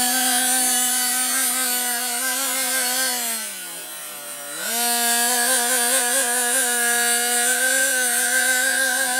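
Nitro RC monster truck's small two-stroke glow engine running at high revs with a steady high-pitched buzz, dropping in pitch as the throttle eases off about three seconds in, then climbing back to full revs a second later.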